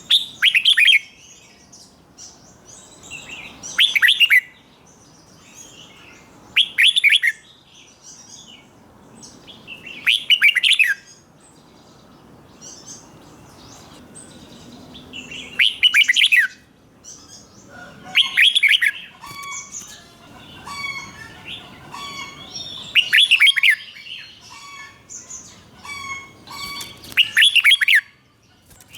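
Red-whiskered bulbul singing loud, short whistled phrases, eight of them about every three to four seconds. Fainter chirps fill the gaps between phrases.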